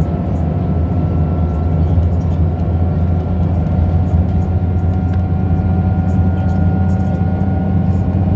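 Scania L94UB city bus running steadily, a strong low drone with a faint whine that slowly rises in pitch as it gathers speed.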